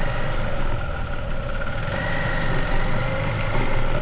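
Motorbike engine running steadily at low speed.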